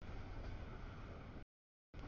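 Double-stack freight train rolling past: a steady low rumble and rush of wheels on rail, broken about a second and a half in by half a second of dead silence where the audio drops out.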